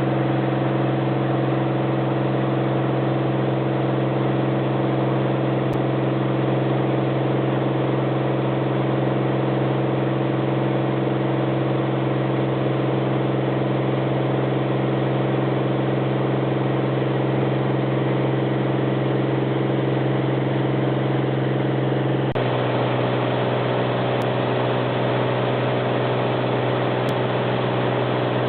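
Small propeller airplane's engine droning steadily in flight, with a sudden slight change in its tone near the end.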